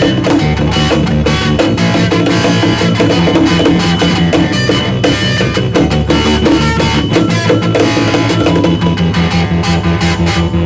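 Rock band playing: drum kit keeping a steady beat under bass and guitar, from an early-1980s Soviet rock recording.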